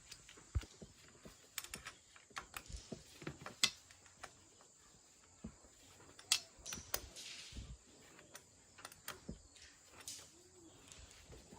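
Quiet, irregular light clicks and knocks, several a second, as of small handling noises.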